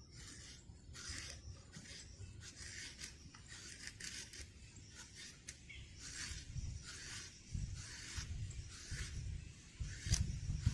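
Repeated short rubbing or scraping sounds, about two a second, over a low rumble that grows louder near the end.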